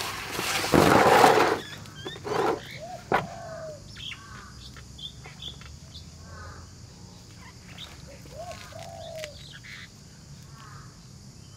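Birds chirping and calling repeatedly, with short falling call notes among quicker chirps. About a second in there is a loud, brief noisy burst, and a couple of sharp knocks follow around two and three seconds in.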